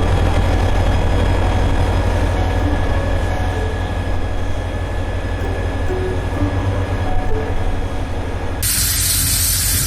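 Train running with a steady heavy low rumble and faint short squealing tones above it. About nine seconds in it gives way abruptly to a steady hiss.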